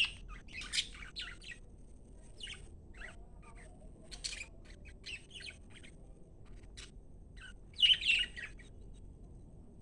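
Pet budgerigars chirping and squawking in short, scattered calls, with a louder burst of chatter near the end.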